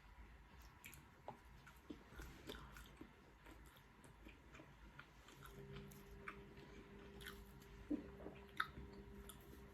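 A person chewing and biting food close to the microphone, with small crisp crunches and clicks and two sharper clicks near the end. A faint steady hum comes in about halfway through.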